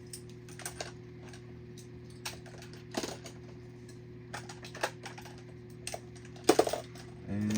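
Scattered light clicks and clacks of die-cast toy cars being handled and set down, with the loudest clatter about six and a half seconds in, over a steady low hum.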